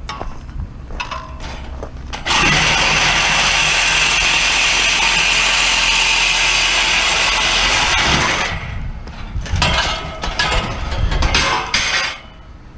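Handheld power tool running: a short spurt near the start, one steady run of about six seconds from about two seconds in, then several short spurts.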